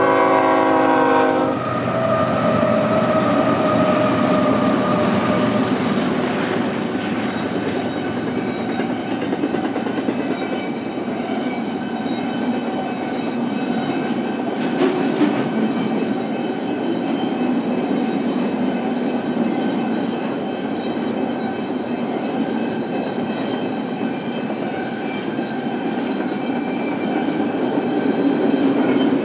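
A BNSF diesel freight locomotive's horn sounds a chord at the start and cuts off about a second and a half in. Then the intermodal train's cars roll steadily past on the rails.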